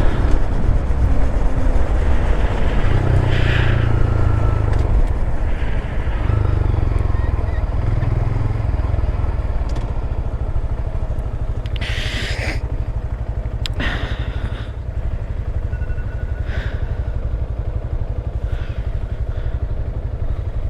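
Honda Grom's single-cylinder engine running while riding, under a heavy, steady wind rumble on the microphone, with a few brief hissing rushes, the loudest about twelve seconds in.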